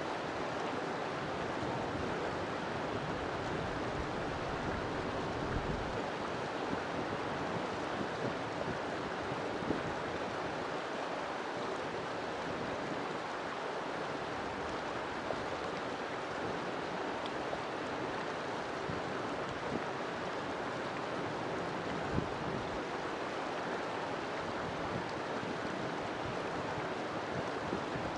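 River water flowing steadily, a continuous rushing over rocks.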